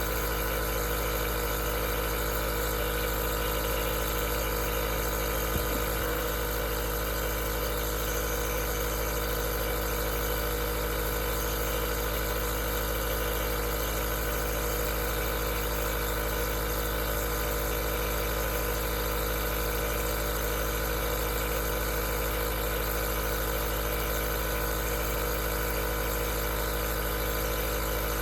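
Aerosol nebulizer running steadily: an even motor hum with a constant hiss of air, and one faint click about five seconds in.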